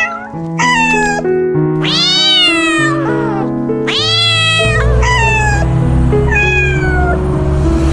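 A cat meowing about six times, short rising-and-falling meows, over background music with held notes and a bass line that comes in about halfway through.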